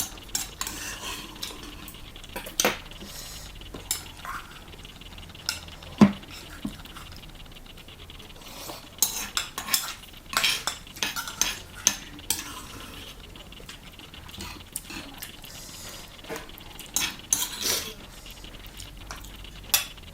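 Eating utensils clinking and scraping against a ttukbaegi earthenware pot as the last of the ramen is eaten: irregular taps and knocks, the sharpest about six seconds in, with busier runs around the middle and near the end.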